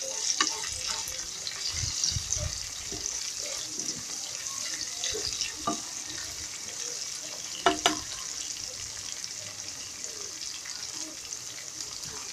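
Onion, tomato, green chili and basil sizzling in hot oil in a frying pan, with a steady high hiss, while being stirred with a spatula. A few sharp clicks of the utensil on the pan, the loudest a pair a little before eight seconds in.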